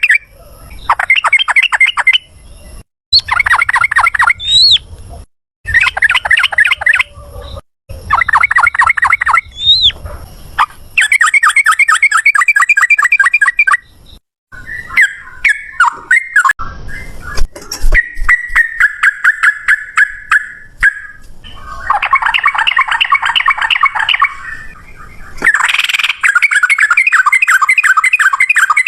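Yellow-vented bulbul (trucukan) singing in fast trilled 'ropel' phrases. Bursts of rapid repeated notes lasting one to three seconds come one after another with short pauses between them.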